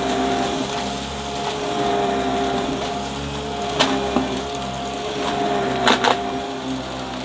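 Upright vacuum cleaner running steadily, its motor giving a steady whine over the rush of suction. Four sharp cracks come in two pairs, about midway and a second later, as debris is sucked up.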